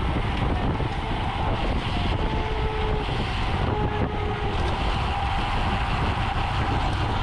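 Steady wind noise buffeting the microphone of a camera carried at speed on a road racing bicycle, over a continuous low rumble of tyres on the road.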